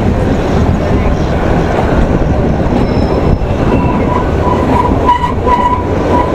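Kalka–Shimla narrow-gauge train running, a loud steady rumble of wheels on rail heard from an open coach window. From about four seconds in, a thin high squeal comes and goes as the wheels take a curve.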